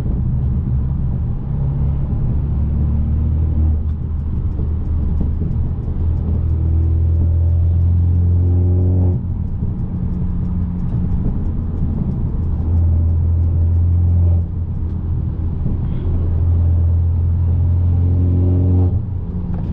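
Car engine and road noise: a steady low drone, with the revs climbing about six seconds in and cutting off sharply near nine seconds, and climbing again near the end.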